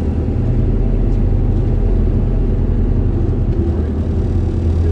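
Isuzu Erga city bus (2DG-LV290N2) under way, its four-cylinder turbo-diesel engine running with a steady low hum and road rumble.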